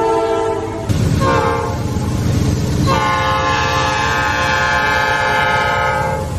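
Freight train rolling through a grade crossing, its diesel locomotive's multi-note air horn sounding. A held chord cuts off about a second in, a short blast follows, then a long blast from about three seconds in, all over the steady low rumble of the passing train.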